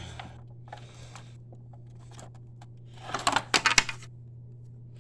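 Clicks and clattering from handling a Hoover upright vacuum cleaner's parts while checking it over, with a loud burst of rattling about three seconds in. The vacuum is not running.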